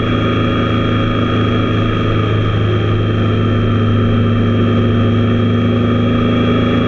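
Triumph Tiger Explorer's three-cylinder engine running at steady revs, its pitch holding level.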